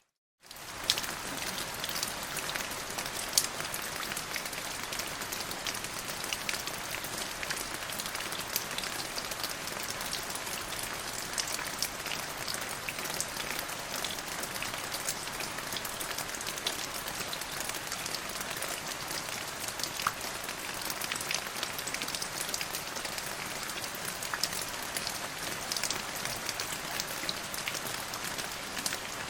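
Steady rain falling, an even hiss dotted with many distinct drop ticks. The sound drops out to silence for a moment at the very start and fades back in within the first second.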